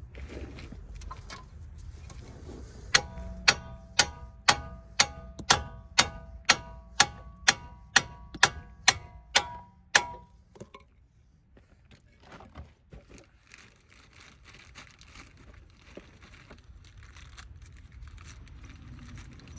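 A hammer striking steel suspension parts about fifteen times, two blows a second, each blow ringing. This is typical of knocking a ball joint or control arm loose from the knuckle. After the blows there are a few faint knocks of tools.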